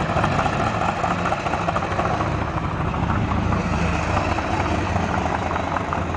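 A car engine idling steadily, with a low, even rumble.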